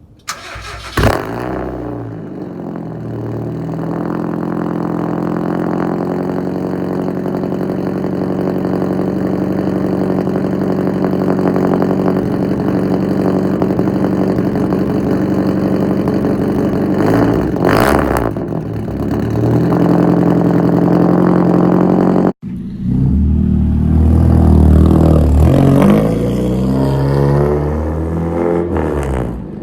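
1991 Mazda Miata's 1.6-litre four-cylinder engine with a straight-pipe exhaust starting up about a second in, then idling steadily. It is blipped once about two-thirds of the way through, and after a brief cut it is revved up and down several times, louder, near the end.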